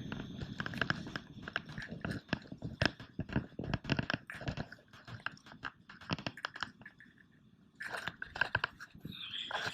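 Wet beach sand crunching and scraping in quick, irregular strokes: dense for about five seconds, then quieter, then busy again near the end.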